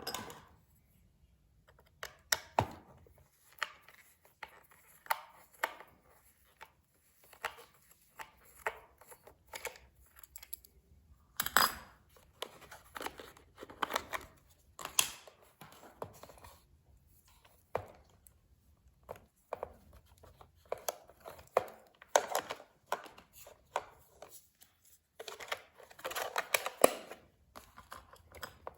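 Toy packaging being handled: irregular rustling and tearing with light clicks and knocks of plastic and cardboard, coming on and off in short clusters.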